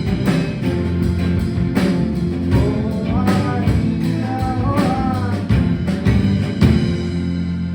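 Live rock band with drums, bass guitar, acoustic and electric guitars and organ playing, with a sung line in the middle. The drum hits stop about seven seconds in and the band holds a sustained chord.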